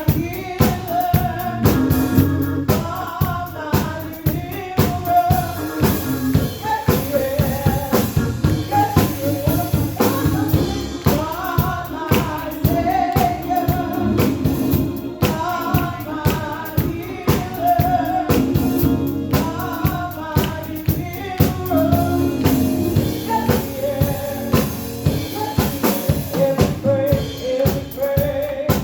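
Live gospel praise music: voices singing over a band with a drum kit keeping a steady beat.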